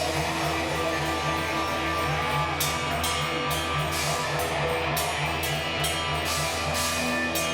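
Band music with guitar, a repeating bass line and drums, the cymbals coming in about two and a half seconds in.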